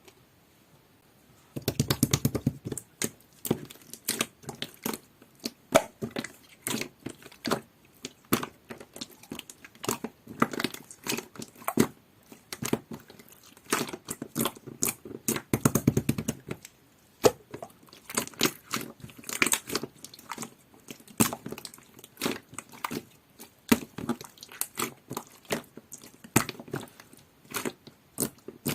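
Clear, jelly-textured slime being squeezed and stretched by hand, giving a dense, uneven run of sharp pops and clicks as trapped air bursts, with a few duller squishes between them. It starts about a second and a half in.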